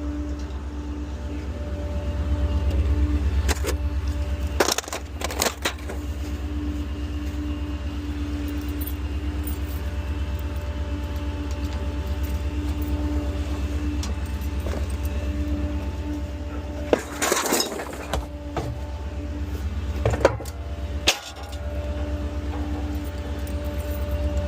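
Small rear-loader garbage truck running steadily with a low rumble and a steady hum, with a few short bursts of metallic clatter and jingling about five seconds in and again near the end.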